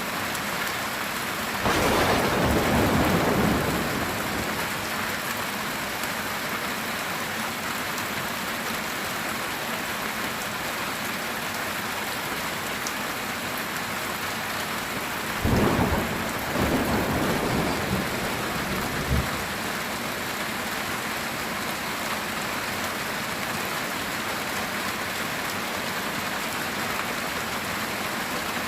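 Heavy rain drumming steadily on a metal tin roof. Thunder rolls in twice: once about two seconds in for a couple of seconds, and again about fifteen seconds in, rumbling for several seconds and ending in a sharp crack.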